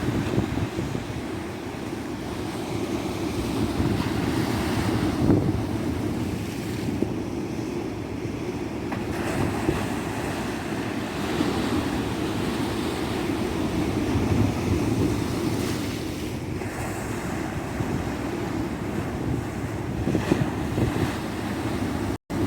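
Tropical ocean surf washing onto a beach, a steady rush that swells and eases every few seconds, with wind rumbling on the microphone. The sound drops out for an instant near the end.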